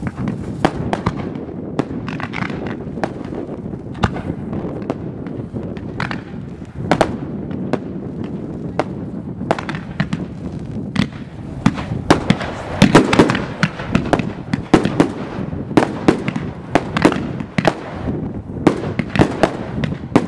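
Professional aerial firework display: shells launching and bursting one after another, many sharp bangs over a continuous rumble. The bangs come faster and louder over the second half.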